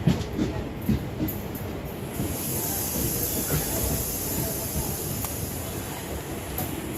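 Passenger train moving on the track, with scattered low knocks from the wheels and rails. A high hiss starts about two seconds in and fades a few seconds later.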